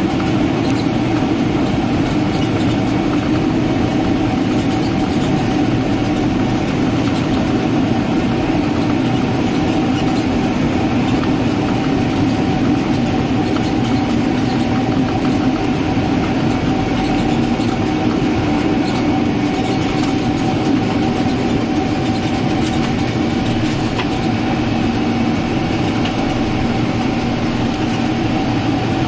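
Steady cabin noise of a Boeing 767-300ER heard from inside: a constant hum and rumble of the jet engines and airframe with a steady tone, with no rise or fall.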